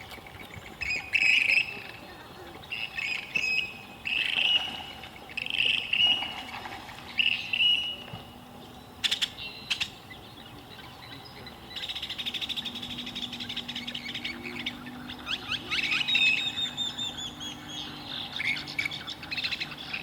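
Songbirds calling: a short chirped phrase repeated about every second and a half, then, from about twelve seconds in, a fast, sustained chattering trill.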